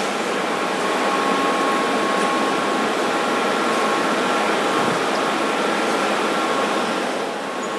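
Furnace running with a steady rushing hum of blower air and a few faint, steady whining tones.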